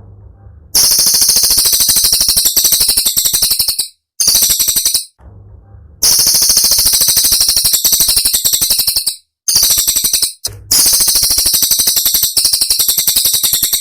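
Cililin bird singing its rapid, sharp, high-pitched 'tembakan' phrases: several bursts of fast-repeated piercing notes, each lasting a few seconds, with short breaks between.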